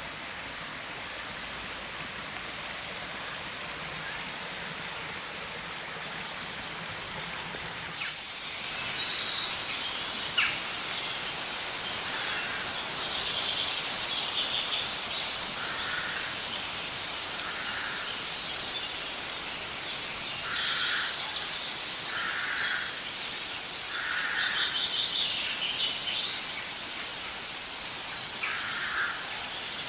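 Steady outdoor hiss. From about eight seconds in, birds call repeatedly in short bursts over it.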